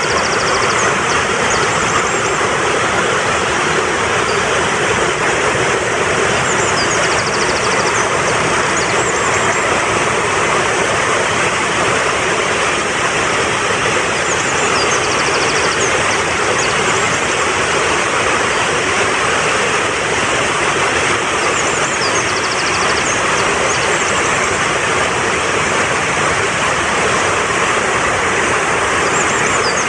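Mountain stream rushing steadily over rocks, with a short high bird call and trill repeating about every seven to eight seconds.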